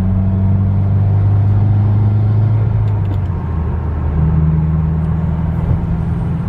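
Car engine running steadily, heard from inside the cabin, with a low drone whose pitch steps down about three seconds in and then holds at a lower note.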